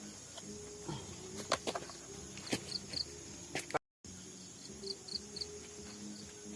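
Steady high-pitched drone of forest crickets and other insects, with groups of short chirps, scattered clicks and knocks, and a faint low hum. The sound cuts out completely for a moment about four seconds in.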